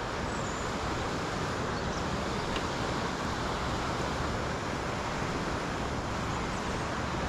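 Fast-flowing river water rushing over rocks in a steady, even rush.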